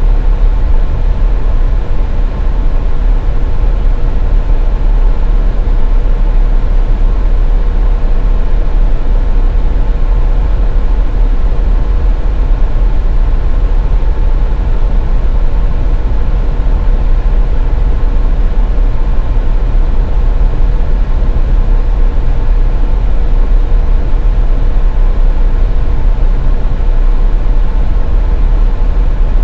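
Car driving on a highway: a steady low rumble of tyres and engine, with a faint constant hum above it.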